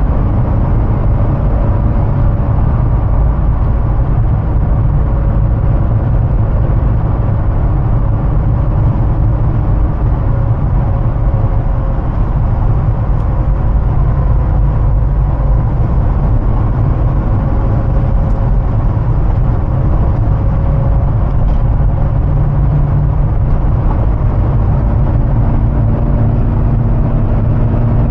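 2005 Hummer H2's 6.0-litre OHV V8 running at a steady, even pace with road noise, the car cruising without revving.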